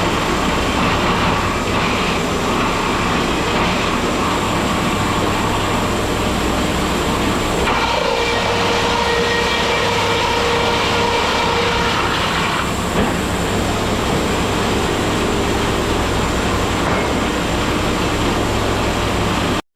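Wood-Mizer LT70 sawmill running steadily with a low engine hum; a higher steady whine joins from about 8 to 13 seconds in. The sound cuts off suddenly near the end.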